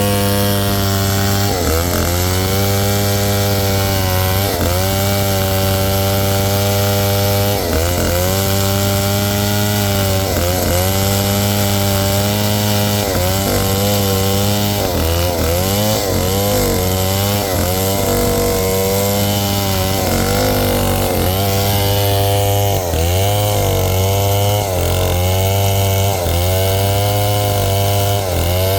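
Large '707' two-stroke chainsaw cutting through a log at high revs. The engine pitch sags repeatedly as the chain bites into the wood and picks back up between cuts.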